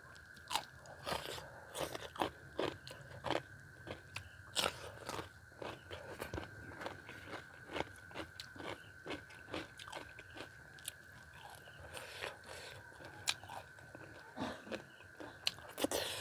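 Close-miked chewing and biting of a mouthful of rice eaten by hand, with wet smacks and crunches about two a second.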